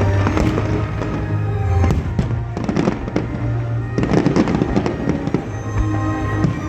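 Fireworks going off in rapid succession, many sharp bangs and crackles, over steady background music.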